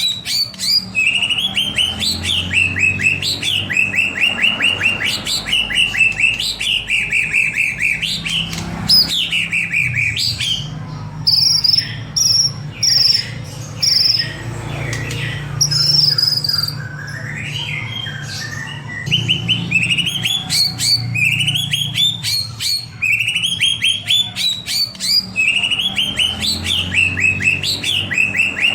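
White-rumped shama singing: repeated fast trilled phrases, each with a rising sweep, and clear high whistled notes in the middle of the song.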